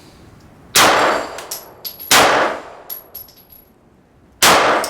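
Three 9mm pistol shots from a Glock 17, the second about a second and a half after the first and the third about two seconds later, each followed by fainter metallic pings of bullets striking steel targets.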